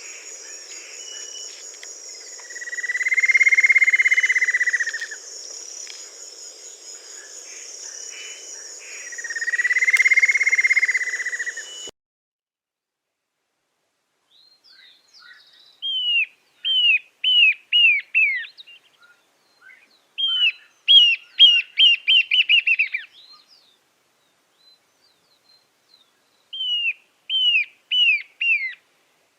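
Wild birds calling. At first there is a steady high insect drone behind two long calls that swell and fade. Then, after an abrupt cut, a bird sings three short runs of quick, sharply falling notes, each run four to eight notes long.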